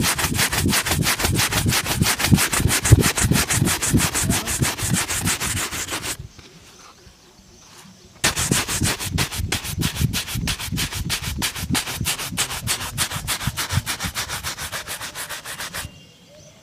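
A shoe being buffed by hand with fast back-and-forth scrubbing strokes, several strokes a second, in two long runs with a short pause between them.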